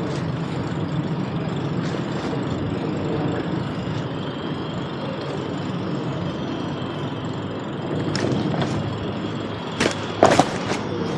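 Steady city street traffic noise heard from a moving bicycle, with two sharp knocks close together near the end.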